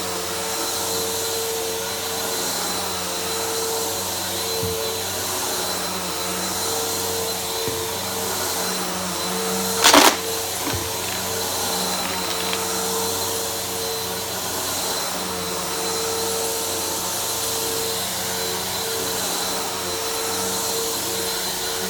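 Upright vacuum cleaner running steadily over carpet, a steady motor whine over rushing air, with one short loud knock about halfway through.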